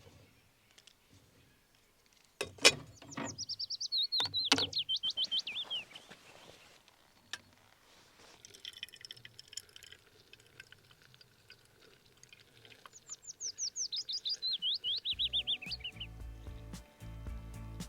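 A songbird sings twice, each song a quick run of short notes stepping down in pitch. A sharp knock comes just before the first song, and soft background music comes in near the end.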